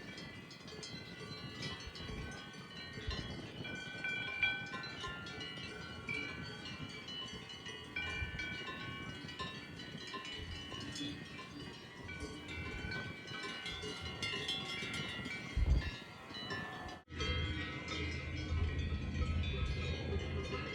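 Swiss cowbells on cattle ringing irregularly, several bells at different pitches overlapping. The sound cuts out for an instant near the end, then resumes over a low rumble.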